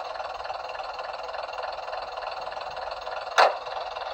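Sound effects from a sound-fitted Bachmann Class 101 DMU model: a steady even background with one sharp bang about three and a half seconds in.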